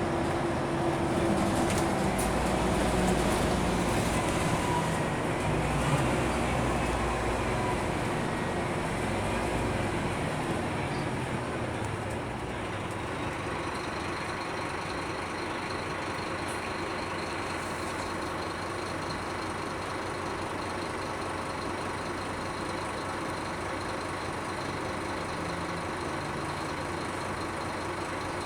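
Scania K310UB city bus heard from inside the cabin: its engine pulls harder for the first dozen seconds, pitch stepping as the automatic gearbox changes gear, then settles into a quieter, steady cruise with a faint high whine.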